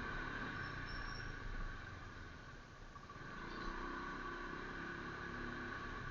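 A road vehicle running steadily, a low engine hum with road noise, and a faint engine note rising a little in the second half.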